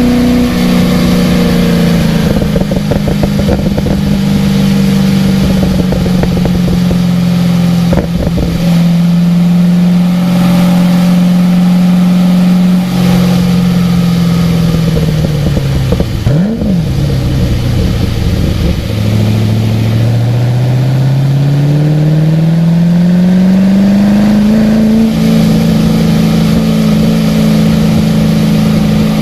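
Car engine under way on a wet track, heard from on board. It holds a steady high note, then falls away as the car slows, with a quick throttle blip on a downshift about halfway. It then rises steadily as the car accelerates out of the corner.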